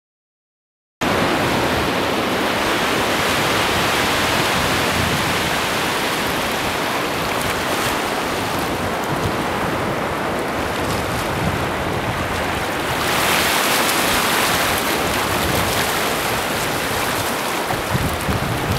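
Sea waves washing onto the shore with wind blowing across the microphone, a steady rushing noise that starts abruptly about a second in. One surge swells louder about two-thirds of the way through.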